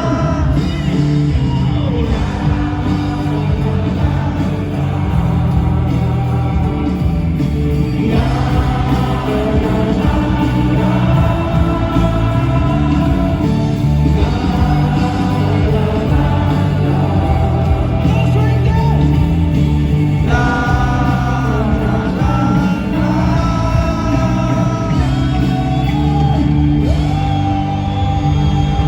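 A rock band playing live, with a singer's melody over drums, bass and guitars.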